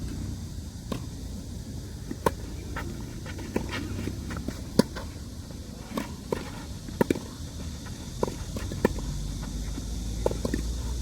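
Tennis ball being struck by rackets and bouncing on the court: a series of sharp knocks a second or two apart, with footsteps on the court between them.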